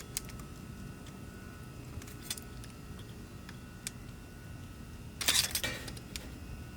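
Hand tools on metal: a few light clicks and clinks, then a louder metallic rattle about five seconds in, as a flat-tip screwdriver is brought to a fuel pump assembly.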